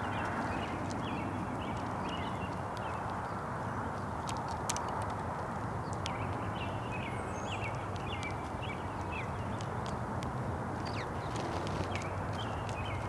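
Small songbirds giving many short, quick chirps, over a steady low background hiss, with a few sharp taps and clicks scattered through.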